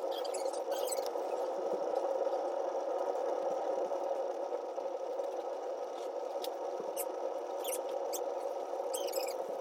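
Wood fire burning in a log burner: a steady rush with scattered crackles and clusters of high, chirping squeaks.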